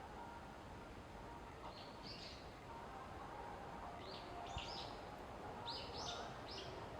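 Small bird chirping: three clusters of quick, short, high notes, roughly two seconds apart, over faint steady background noise.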